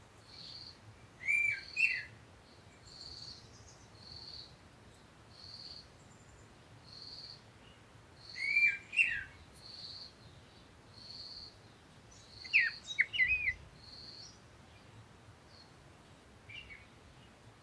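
Birds calling. A short high note repeats about every second and a half, and three times a bird sings a short phrase of quick rising and falling whistles: about a second in, near the middle, and about two-thirds of the way through.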